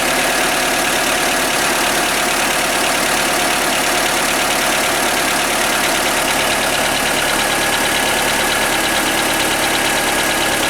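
Skoda Fabia 1.4 16-valve four-cylinder petrol engine (BKY) idling steadily. A light, barely audible knock is present. The owner's complaint, which the repair later confirmed, is piston knock.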